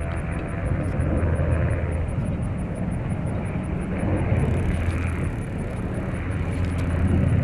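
Aircraft in flight: a steady engine drone with a low constant hum beneath it.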